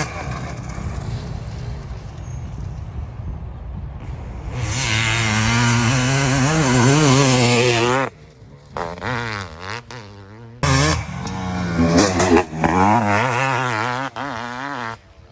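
Two-stroke motocross bike engine revving hard and dropping back, its pitch rising and falling as the throttle is worked. The sound cuts off abruptly about eight seconds in and again near the end.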